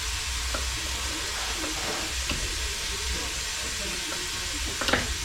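Steady hiss and low hum of a noisy workshop, with a few faint clicks and one sharper knock near the end.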